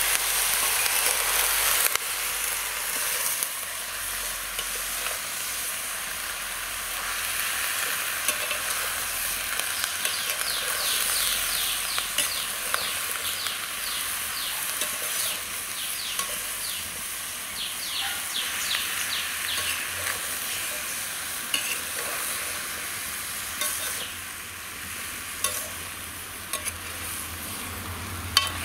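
Cut brinjal pieces sizzling in oil in a metal kadai while a slotted metal spatula stirs them, the sizzle louder for the first two seconds. A few light clinks of the spatula on the pan come near the end.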